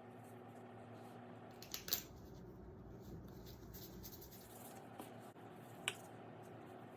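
A few sharp clicks and taps of kitchen utensils being handled, the loudest a quick double click about two seconds in, over a steady low hum.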